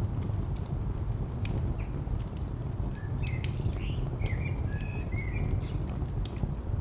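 Steady low rumble of distant traffic with scattered sharp crackles and pops from a wood fire. A few short bird chirps come in about three seconds in and stop around five and a half seconds.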